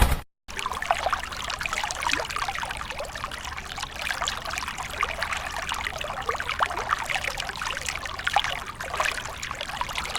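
Water pouring and trickling in a steady stream with small splashes, from a DIY model water tanker. It starts just after a brief dropout near the beginning.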